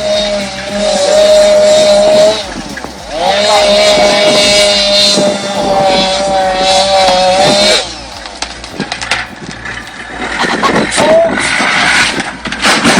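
A small engine running at high, steady revs, held twice for a few seconds with a drop-off in between. After that come irregular clicks and knocks.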